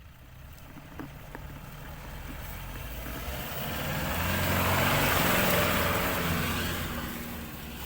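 A motor vehicle driving past: its engine and tyre noise grow louder to a peak about five seconds in, then fade as it moves away.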